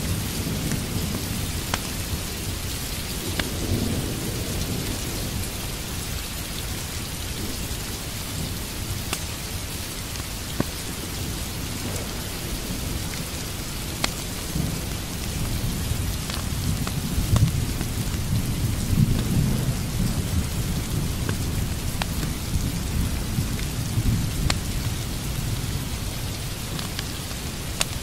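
Steady rain with rolling thunder, the low rumble swelling about three seconds in and again more strongly a little past the middle. A few sharp ticks come through over the rain.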